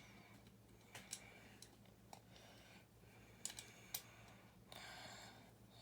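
Small plastic building bricks being handled and pressed into place: a few faint, scattered clicks, the sharpest about three and a half and four seconds in.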